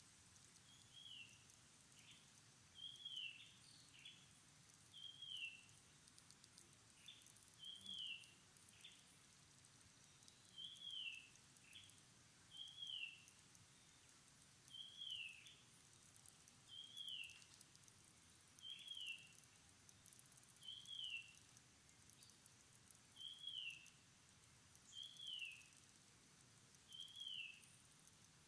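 A bird repeating a short falling whistled note about every two seconds, faint, over a steady high hiss.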